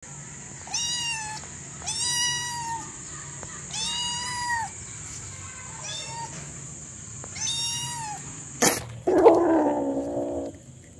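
Kitten meowing: five short, high-pitched meows about every second and a half, then a sharp click and one longer, lower, louder meow near the end.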